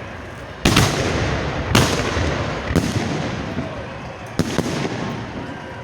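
Fireworks display shells going off: four loud bangs about a second apart, each trailing into a long rumbling echo.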